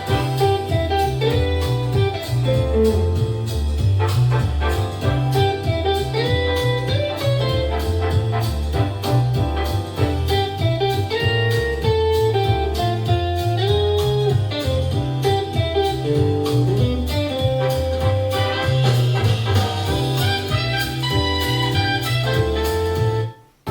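Music playing on a portable Bluetooth speaker: a steady pulsing bass beat under guitar and keyboard melody lines. It cuts out briefly just before the end.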